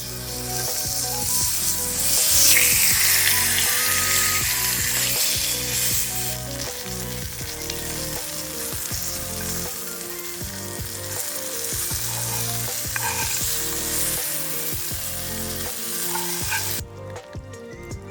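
Food sizzling as it fries in a hot pan, loudest a few seconds in and cutting off suddenly near the end, with background music underneath.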